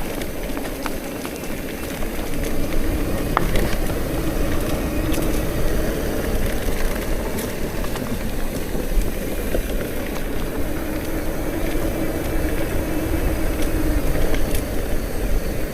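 Bicycle rolling along a rough forest road: steady tyre rumble and hum, with wind buffeting the microphone and small clicks from the ground.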